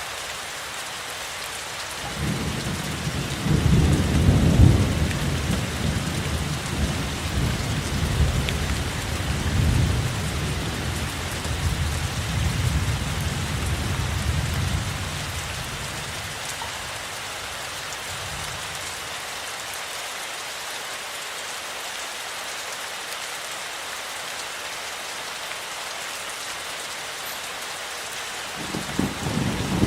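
Steady rain falling, with a long roll of thunder rumbling from about two seconds in until about halfway, loudest early on, and another roll of thunder starting near the end.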